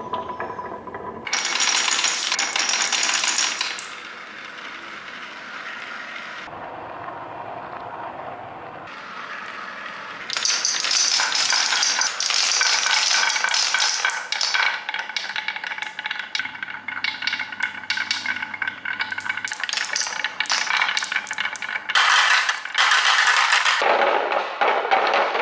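Marbles rolling and clattering along a marble-run track, in loud rattling, clinking spells with a quieter rolling stretch in between.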